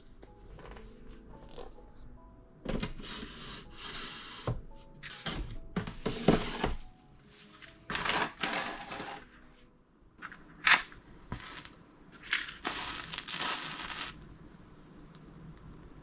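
Kitchen storage items and packaging being handled: a series of crinkling, crushing rustles with a few sharp knocks, over soft background music.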